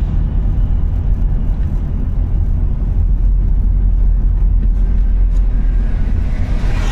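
Car driving: a steady low rumble of engine and road noise, with a brief hiss swelling near the end.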